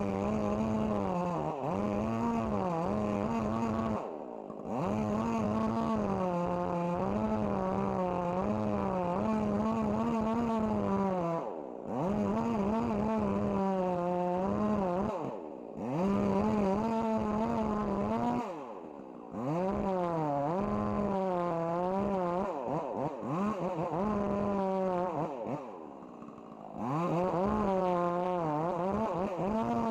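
Chainsaw engine running at high revs, its pitch wavering and sagging as under load. About five times the revs fall away briefly and climb back up.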